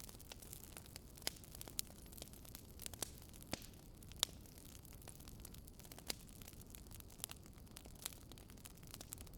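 Burning firewood logs crackling: irregular sharp pops and snaps, a few louder than the rest, over a low steady hiss.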